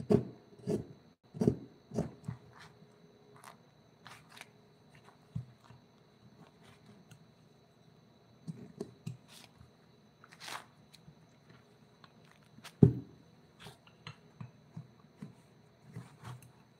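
Irregular knocks, taps and short scrapes of hand tools working on a wooden carving, with the sharpest knock about two-thirds of the way through.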